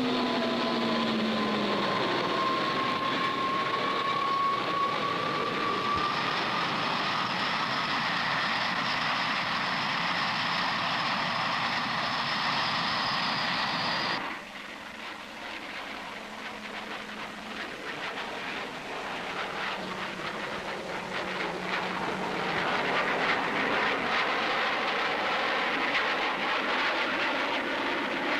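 Jet aircraft noise: a loud, steady rush with slow pitch glides as aircraft pass. It cuts off abruptly about halfway through, then builds up again with a rougher, clattering quality.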